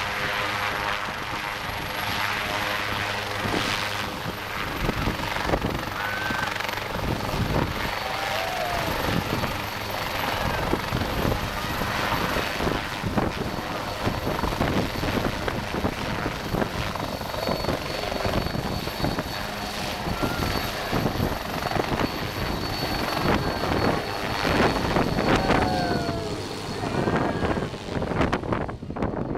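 A large engine running steadily, its hum fading out about halfway through, under the noise of a crowd with scattered voices.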